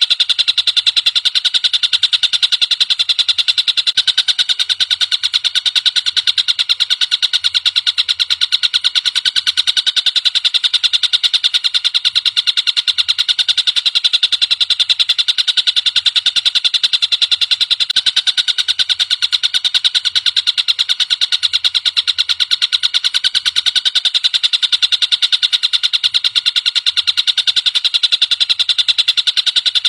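Tengkek buto kingfisher call, a recording used as a 'masteran' to tutor songbirds. It is a high, very rapid chattering trill repeated without pause and at an even level.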